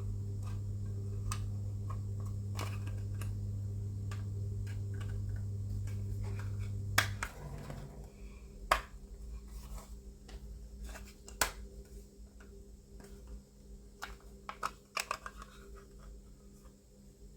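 Small plastic pieces of a model motorcycle fuel tank being handled and pressed together: scattered light clicks and taps. A steady low hum runs underneath and stops about seven seconds in.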